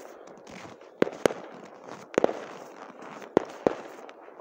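New Year fireworks going off: about six sharp bangs of bursting shells, some in quick pairs, with fainter pops between them.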